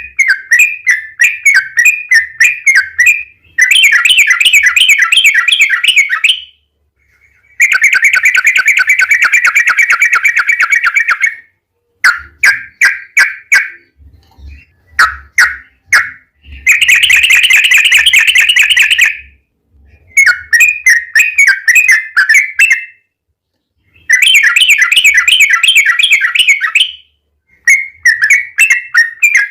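Yellow-vented bulbul (trucukan) singing loud, bubbly chattering phrases of two to four seconds with short pauses between them, several of them fast, even rattling trills.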